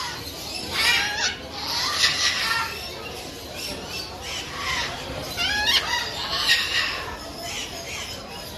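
Burrowing parrots (Patagonian conures) screeching in a colony: many harsh calls overlapping, with louder calls about one, two and six seconds in.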